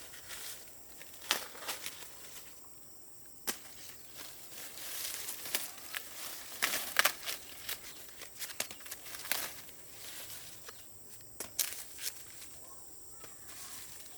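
Irregular rustling with many sharp snaps and crackles at uneven intervals, the loudest about seven seconds in, like dry plant material being handled or trodden.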